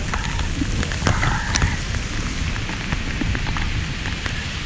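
Steady rush of rain and riding wind on a motorcycle rider's camera microphone, with scattered sharp ticks of raindrops striking it.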